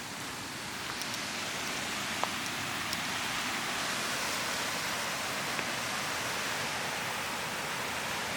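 Waterfall rushing: a steady hiss of falling water that grows louder over the first few seconds, then holds even. A single sharp click sounds about two seconds in.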